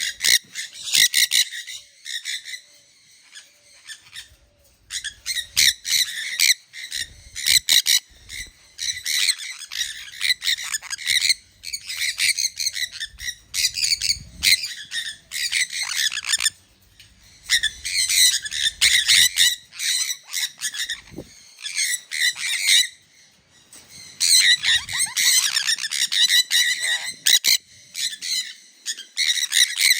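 Sun conures calling: shrill, high-pitched squawks repeated in rapid runs of several seconds, broken by short pauses.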